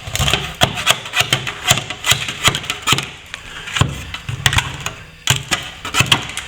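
Hand plastering tools working at a ceiling-to-wall plaster joint: a quick, irregular run of sharp scrapes and knocks of metal against plaster.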